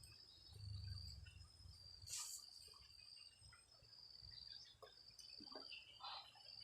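Faint insect chorus: a steady high trill typical of crickets, breaking off now and then. There is a brief hiss about two seconds in and a few soft knocks.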